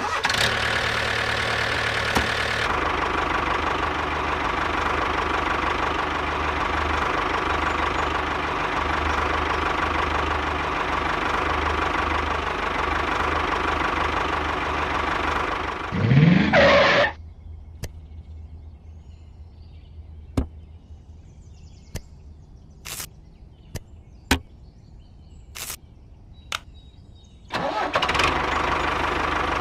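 Small motor of a miniature model tractor running steadily for about sixteen seconds. It speeds up sharply in a rising whine and stops. Scattered clicks follow in the quiet, and the motor starts running again near the end.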